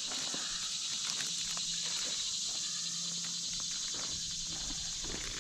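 Steady, even chorus of insects chirping and buzzing, with a few faint clicks of handling.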